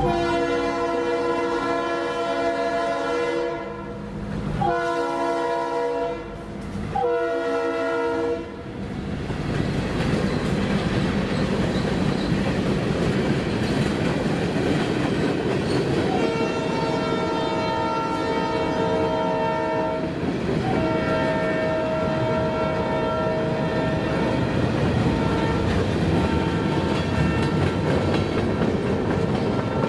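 Freight train approaching a road crossing, its horn sounding three blasts, the last one shorter. Then the freight cars roll past with a steady rumble and wheel clickety-clack, and a steady multi-note tone comes in about halfway and holds.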